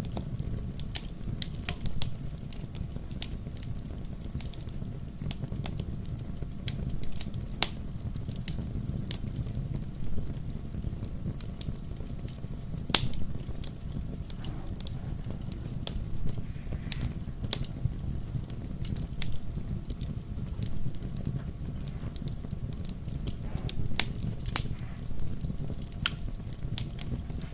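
Wood fire crackling in a fireplace: frequent irregular pops and snaps over a steady low rumble of flames.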